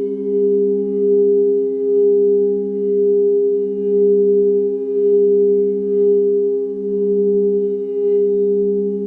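Singing bowls sounding a sustained chord of several steady tones, the lowest one swelling and fading in a slow pulse about once a second.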